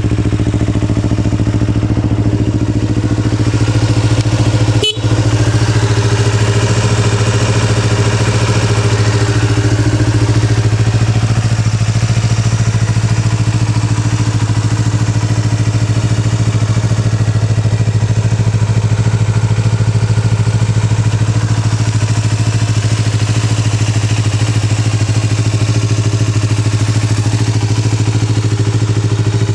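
Yamaha YZF-R25's parallel-twin engine idling steadily through an Akrapovic aftermarket exhaust.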